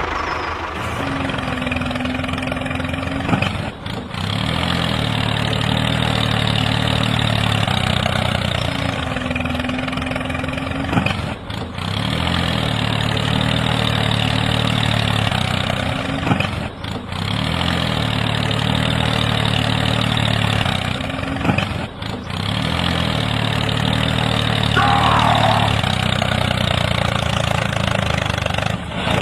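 Tractor engine running at idle, the sound breaking off briefly every five to eight seconds and starting again.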